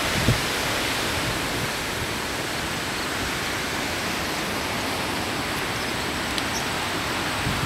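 Hurricane wind and surf making a steady, even rushing noise, with low buffets of wind on the microphone at the start and again near the end.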